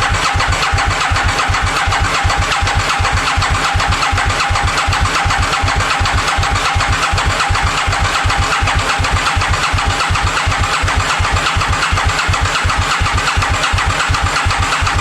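2000 Aprilia Mille R's V-twin engine being turned over on its electric starter without firing, with even, rapid compression pulses and a steady starter whine. The engine is cranking with no fuel in the tank to prime oil up to the camshafts and valve train after years of sitting.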